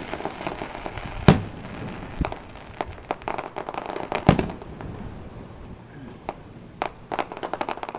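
Aerial fireworks bursting: two loud bangs about three seconds apart with smaller reports between, then a quick run of many small crackling pops near the end.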